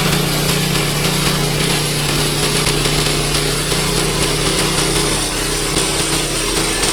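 Small gasoline engine of a portable bandsaw sawmill running steadily, with a faint high whine slowly rising in pitch.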